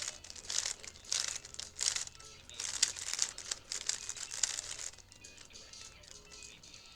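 Plastic 3x3 speedcube being turned rapidly: a dense run of quick clicking, rasping layer turns that eases off about five seconds in.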